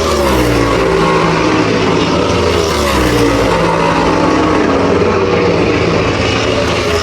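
NASCAR stock-car V8 racing engines running loud at speed. The engine note drops in pitch just after the start, holds steady, and drops again near the end, as when lifting off into a turn.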